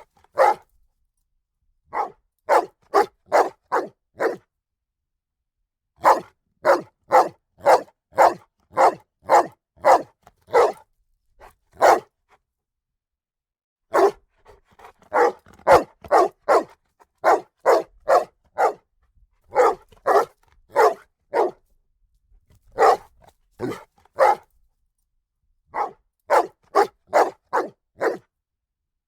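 A dog barking loudly and repeatedly: short sharp barks in runs of four to ten, about two a second, broken by pauses of a second or two.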